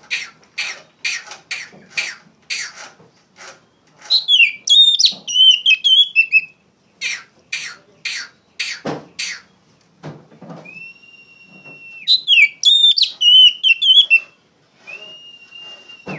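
Oriental magpie-robin (kacer) singing loudly. Runs of quick harsh, rasping notes alternate with warbled whistled phrases and long, level held whistles.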